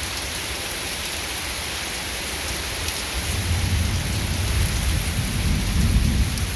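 Steady hiss of heavy rain falling, with a low roll of thunder rumbling in from about halfway through and fading near the end.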